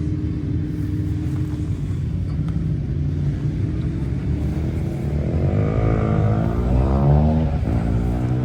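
Motorcycle engines running with a steady low rumble; about five seconds in one is revved, its pitch climbing, dropping briefly and climbing again near the end.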